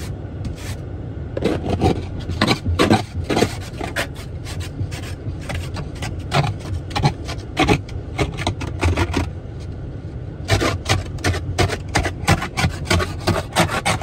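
Repeated rasping scrapes, two or three strokes a second, of an ice scraper clearing snow and ice from a car's windows, over a steady low rumble.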